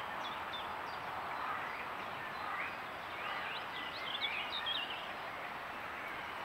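Small woodland birds chirping and calling, a flurry of short rising and falling notes about three to five seconds in, over a steady background hiss.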